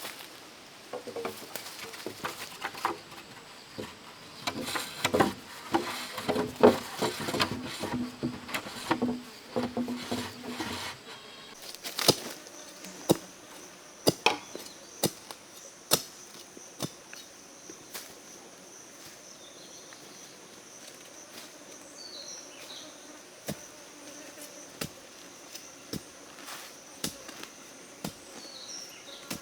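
Knocks and cracks of bamboo being chopped and handled: a busy run of strikes, some ringing hollow, for the first ten seconds or so, then scattered single knocks. From about twelve seconds in, insects buzz steadily at a high pitch.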